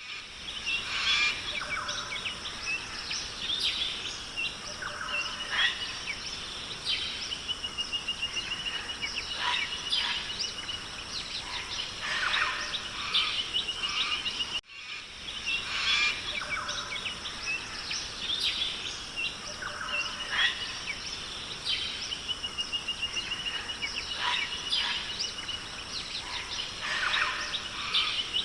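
Tropical forest ambience: many birds chirping and whistling, including one long trill, over a steady high insect hum. The recording is a loop; after a brief dip about halfway through, the same stretch of calls plays again.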